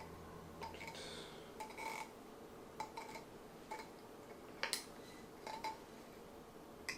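A series of light, irregular clicks and clinks, some with a brief ring, over a faint hum that fades in the first second.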